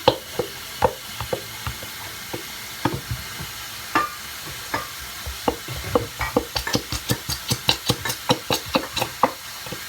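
Glue being squeezed and shaken out of a plastic bottle into a bowl: light irregular clicks and squelches that quicken into rapid taps about six seconds in, the thick glue slow to come out.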